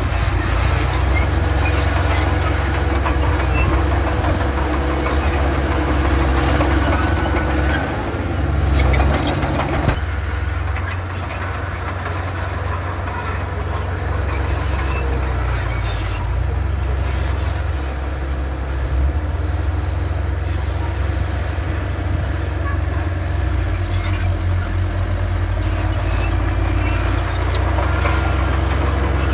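Komatsu D31 bulldozer's diesel engine running steadily as it works, with a brief surge about nine seconds in.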